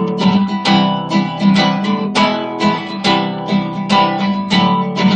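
Acoustic guitar strummed in a steady rhythm, about three strokes a second, playing chords between sung lines of a song.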